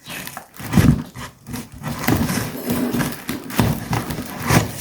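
Irregular knocks and rubbing from handling the improvised chick brooder box.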